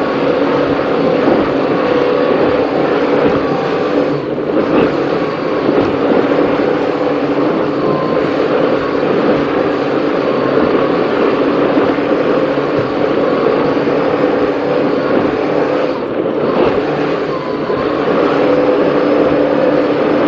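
Offshore race powerboat's engines running hard at speed, a loud steady drone with the rush of wind and water over it; the sound dips briefly twice.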